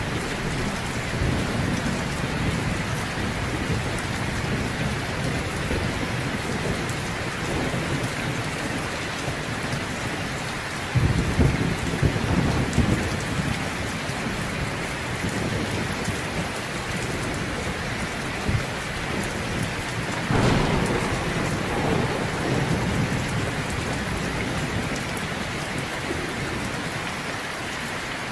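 Heavy rain falling steadily, with a roll of thunder rumbling about eleven seconds in and another about twenty seconds in.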